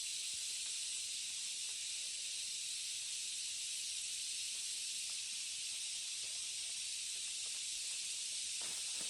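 Steady, unbroken high-pitched hiss of an insect chorus, holding at one level throughout.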